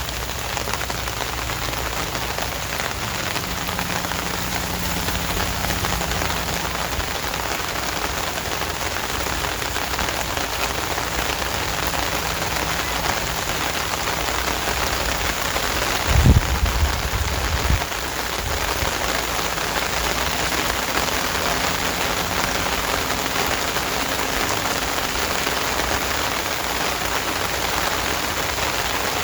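Steady heavy rain falling and pattering on surfaces, with a brief low rumble about halfway through.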